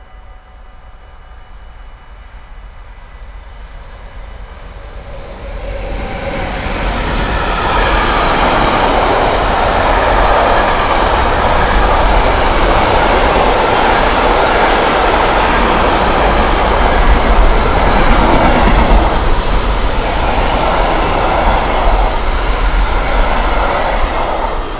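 Container freight train approaching and passing close by. Its sound swells over the first several seconds as the locomotive nears, then settles into a long, steady rush of wheels rolling on the rails as the wagons loaded with tank containers go past. It eases off near the end.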